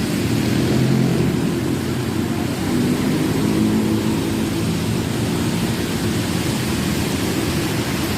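Heavy rain with road traffic running past: a steady rushing noise over a low drone of engines.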